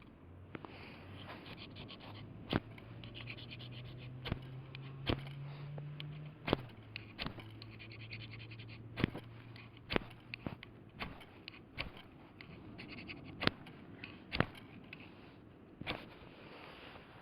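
Freshly lit campfire crackling: sharp, irregular pops about once a second over a soft hiss.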